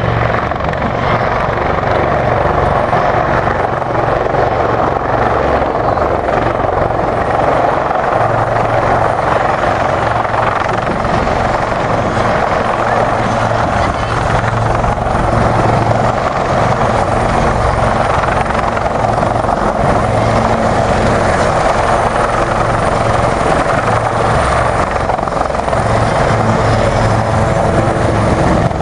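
Helicopter flying, a loud, steady rotor and engine noise that keeps up without a break.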